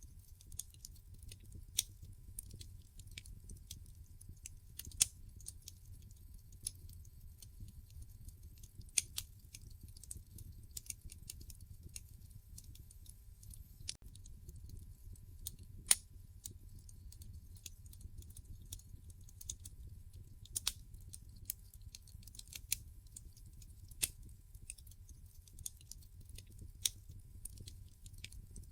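Wood fire in a fireplace crackling: irregular sharp pops and snaps, a few of them loud, over a low steady rumble of the burning logs.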